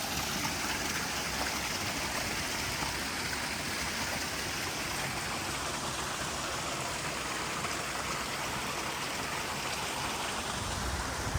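River water flowing and rushing steadily, an even hiss of moving water.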